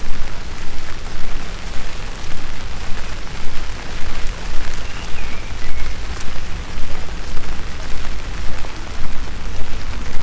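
Steady rain falling, with scattered sharp drips, over a loud low rumble that keeps swelling and fading.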